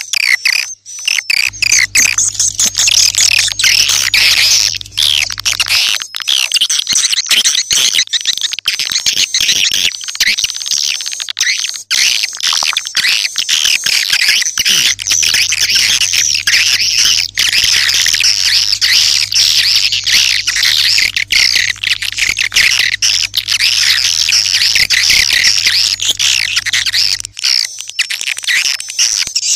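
Swiftlets twittering: a dense, continuous chatter of high chirps and clicks, the kind of swiftlet call sound played to lure swiftlets into a nesting house. A low steady hum comes in about a second and a half in, drops out near six seconds, and returns from about fifteen to twenty-seven seconds.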